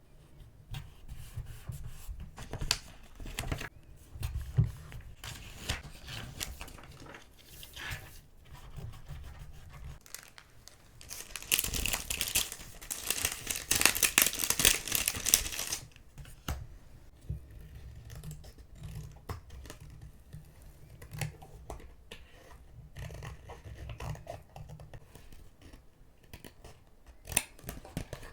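Paper goods being handled for collage journaling: scattered short rustles and taps, with about four seconds of loud, continuous paper tearing near the middle.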